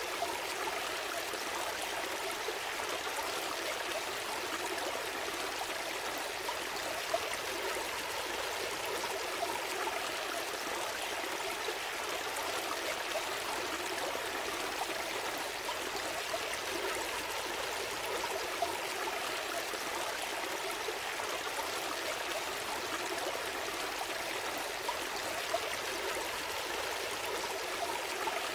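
A small stream flowing and trickling steadily, with a few faint brief splashes.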